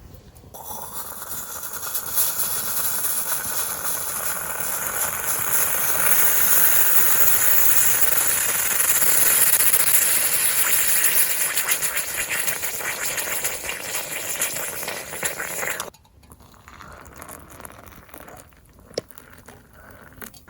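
A steady hiss that builds over the first few seconds and cuts off suddenly about sixteen seconds in.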